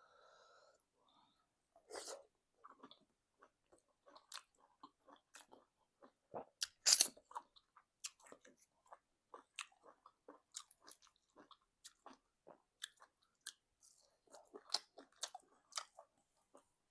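Close-miked chewing of egusi soup and semolina: wet mouth smacks and clicks in an irregular stream, with one louder smack about seven seconds in.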